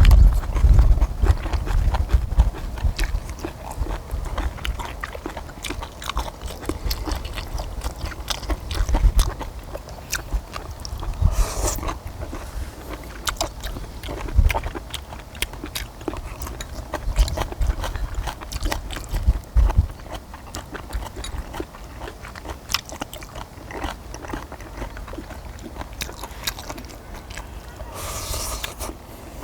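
Close-up chewing and biting of chewy stir-fried small octopus with kimchi, with many small irregular wet mouth clicks and smacks.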